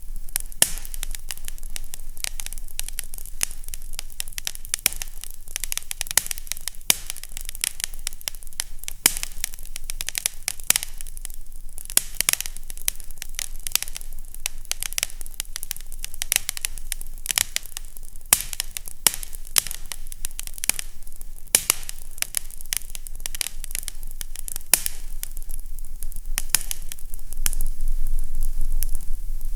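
Wood fire crackling in a fireplace: frequent sharp pops and snaps over a steady soft hiss.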